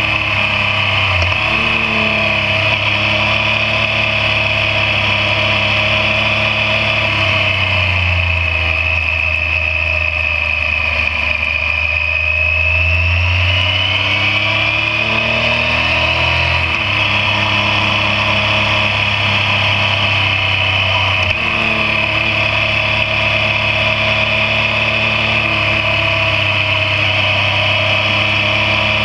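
Yamaha MT-09's three-cylinder engine running under way as the motorcycle is ridden, steady and loud. Its note drops off and then climbs again in the middle, as the rider eases off and accelerates.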